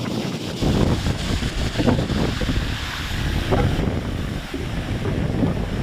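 Stormy sea: heavy surf breaking and churning, with strong wind buffeting the microphone. A deep rumble swells up about half a second in and surges unevenly after that.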